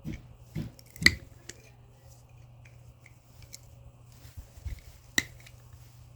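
Small metal scrap being worked by hand with cutters: two sharp snapping clicks, about a second in and again near the end, with lighter taps and handling noise between, over a steady low hum.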